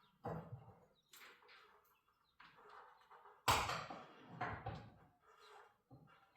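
Steel winding bars knocking and clanking in a garage door torsion spring's winding cone as the spring is unwound a step at a time. There are several scattered metallic knocks, with one sharp, ringing clank about three and a half seconds in.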